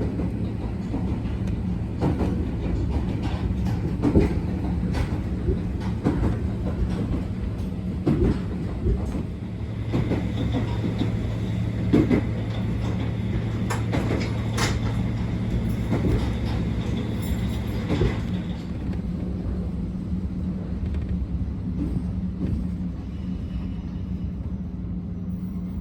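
Abukuma Express 8100 series electric train running, heard from inside the car: a steady low rumble and hum with irregular knocks of the wheels over rail joints. A high steady whine joins about ten seconds in and fades out a little after halfway.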